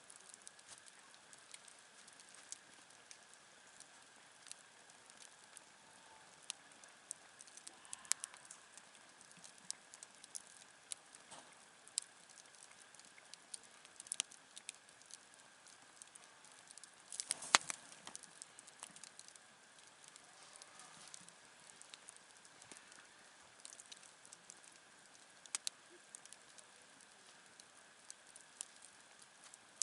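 Wood campfire crackling, with irregular sharp pops and a louder cluster of pops about two-thirds of the way through.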